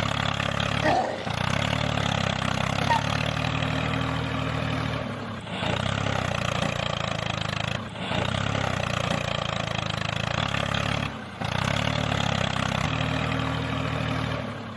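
The small engine of a mini model tractor running steadily at an even pitch, with short breaks in the sound about 1, 5.5, 8 and 11 seconds in.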